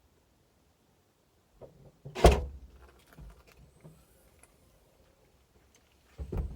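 Thuds and knocks from a Ford C-Max's body as a person climbs in: one loud thud about two seconds in, scattered small knocks and rustles, then two more thuds near the end.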